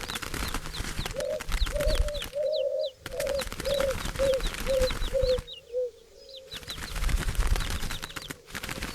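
Dove cooing in a run of about nine short, low notes, roughly two a second. Small birds chirp high over it and a dense crackling runs throughout. The bird sounds thin out briefly twice.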